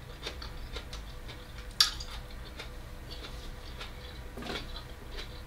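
Faint mouth clicks and crunching of someone chewing raw vegetables, with one sharper click about two seconds in, over a steady low hum.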